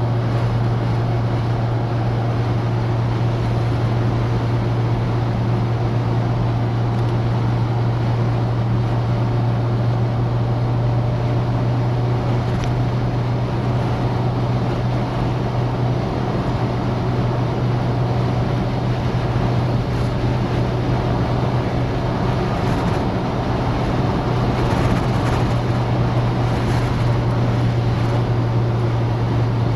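Citroen DS on the move at a steady pace: a constant low engine drone over road and wind noise, with no change in pitch.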